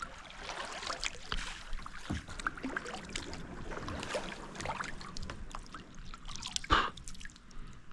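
Kayak paddling on a creek: the paddle dipping and splashing, with water dripping and trickling off the blade. A single sharp knock a little before the end is the loudest sound.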